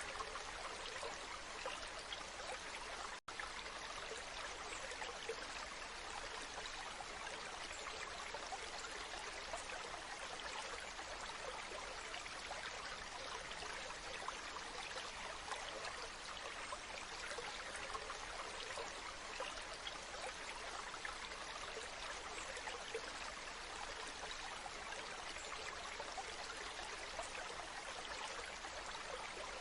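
Waterfall: a steady rush of falling water, with a momentary break in the sound a little over three seconds in.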